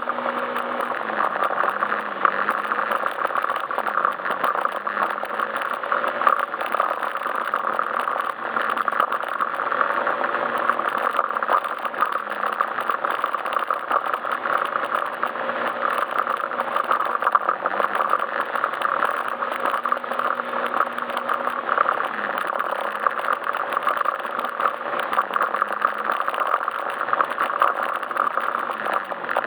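Yamaha Majesty S SP scooter's single-cylinder four-stroke engine running under way, its note dipping briefly and picking up again several times, over steady road and wind noise.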